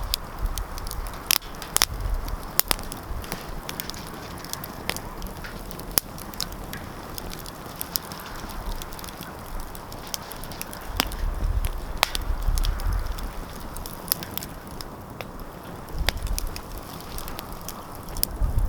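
Wood fire in a fireplace crackling, with sharp irregular pops and snaps over a soft steady hiss, and a low rumble from the fire a few times, strongest about two-thirds of the way through.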